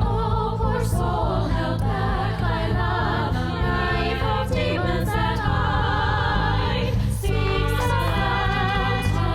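Soundtrack music: a choir singing sustained, wavering notes over a steady low bass.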